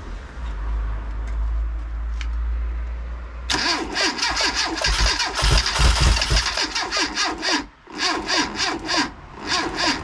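Rebuilt 1380 cc A-series four-cylinder engine on a test stand being cranked on its starter motor. About a third of the way in it fires raggedly in uneven bursts, dips out briefly near 8 seconds, then fires again. It is trying to start but does not settle into running, on a battery pack that is not the best.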